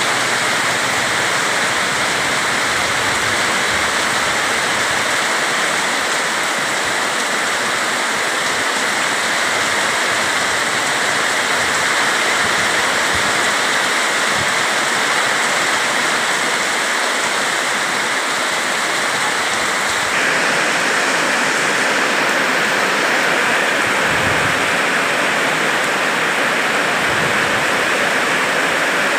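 Heavy rain pouring down steadily, a dense even hiss, with a slight change in tone about twenty seconds in.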